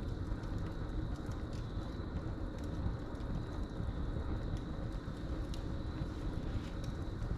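Wood fire crackling with scattered sharp pops, over a steady low rumble, while crickets trill continuously in the background.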